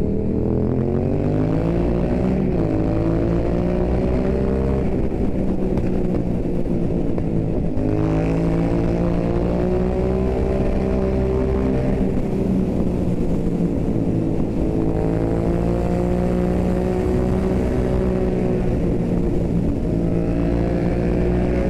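Yamaha MT-07's parallel-twin engine through an Akrapovič Racing Line exhaust, heard from the rider's seat while riding. The engine note climbs in pitch several times as the bike accelerates, falling back in between.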